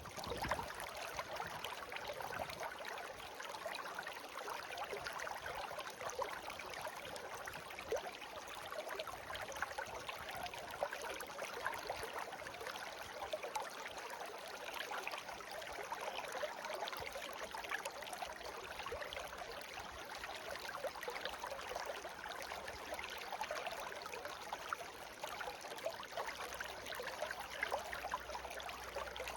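Shallow stream of clear water flowing and babbling steadily, with a dense patter of small splashes and trickles.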